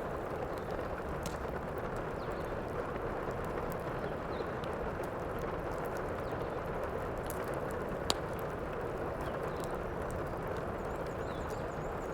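Steady heavy rain, with the scattered crackles and pops of a wood fire; one sharper pop about eight seconds in.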